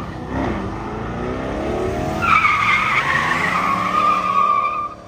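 Car engine revving up, then the tires squealing loudly in a burnout for about two and a half seconds, starting about two seconds in and cutting off suddenly near the end.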